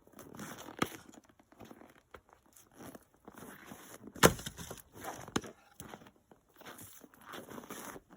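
Split firewood being hooked with a small pickaroon and tossed onto a pile: a few sharp wooden knocks, the loudest about four seconds in, with footsteps and shuffling between them.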